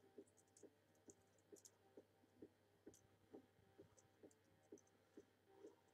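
Near silence: faint, even ticking about twice a second, with a few light clicks of plastic toy parts being handled.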